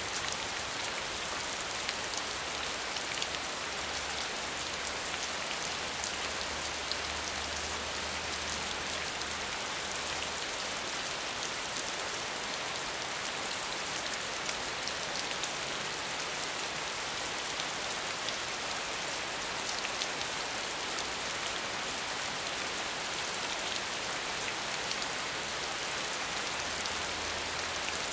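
Steady medium rainfall: an even hiss of rain with a fine, dense patter of drops.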